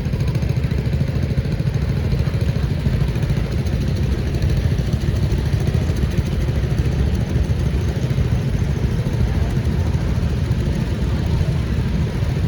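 Old farm tractor engine running steadily at low speed.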